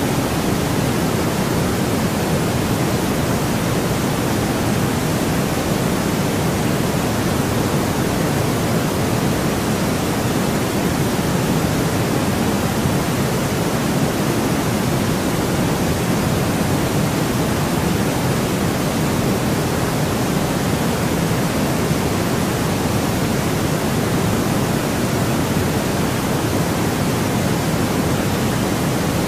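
Steady, unchanging synthetic noise, a constant hiss over a slightly fuller low rush, with no changes or events.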